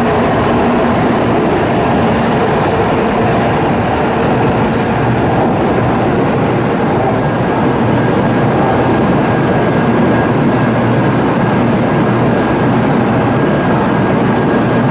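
Shinkansen bullet train running: a steady, loud rumble and rush of wheels and running gear, with a faint high steady tone coming in about six seconds in.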